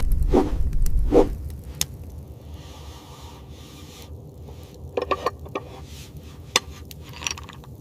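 Rubbing and scraping handling noises: two swishes over a low rumble in the first second or so, then a quieter stretch with a few short scrapes and clicks, a cluster about five seconds in and one sharp click a little later.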